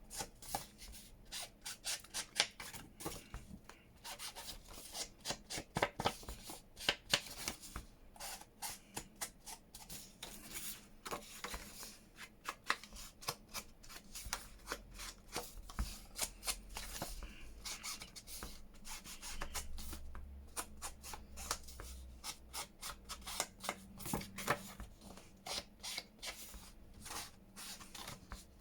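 Ink pad rubbed and dabbed around the edges of paper tags: a long run of quick, dry, scratchy strokes of felt on card.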